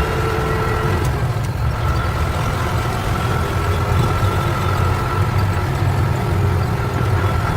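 Truck engine running steadily while driving: a constant low rumble with a faint, steady high whine over it.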